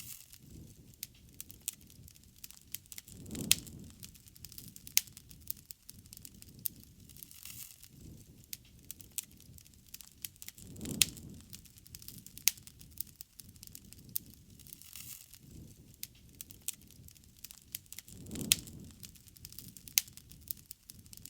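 Bonfire crackling, with many sharp wood pops, and a low rushing swell of the fire about every seven to eight seconds.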